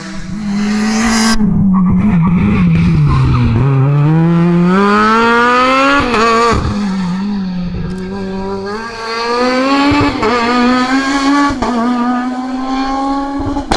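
Rally car engine dropping in pitch as it slows, then accelerating hard, the revs climbing and falling back at three upshifts.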